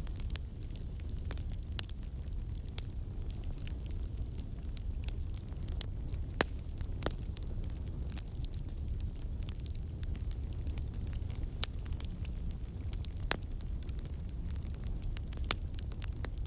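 Fire crackling in a fireplace: a steady low rumble from the flames with irregular sharp pops and snaps, the loudest about six seconds in.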